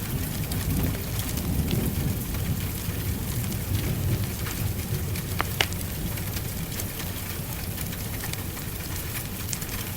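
Steady rain with a low rumble of thunder underneath and scattered crackles and pops from a wood fire, one sharper pop about halfway through.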